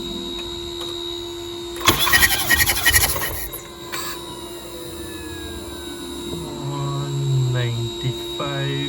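BMW B48 four-cylinder engine spun over by its starter motor for about a second and a half with the spark plugs out, for a compression test, a rapid pulsing churn. A steady hum runs underneath.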